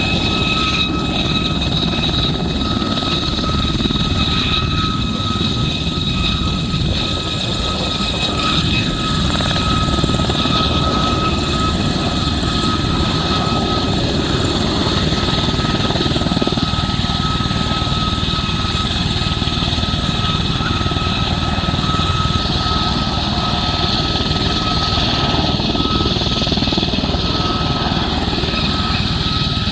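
Aérospatiale SA342M Gazelle helicopter running steadily, its turbine whining high and steady over the constant rotor noise.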